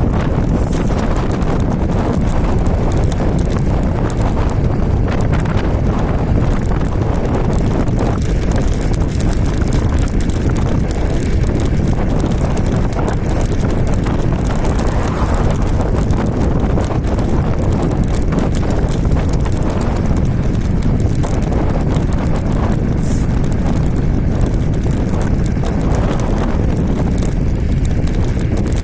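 Steady wind rumble on the microphone and road noise from an electric scooter being ridden, with small irregular knocks and rattles over the road surface.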